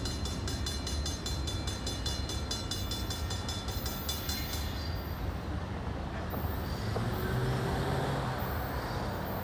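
Freight cars rolling away along the track with a steady low rumble. A rapid, even high-pitched ticking runs over it and stops about four seconds in.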